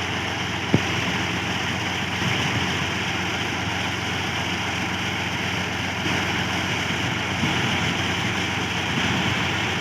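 New Holland Al-Ghazi 65 hp tractor's diesel engine running steadily while driving a tubewell pump through its PTO shaft, with one sharp click under a second in.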